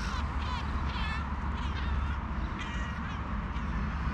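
Crows cawing and ducks quacking, several short calls in a row, over a steady low rumble.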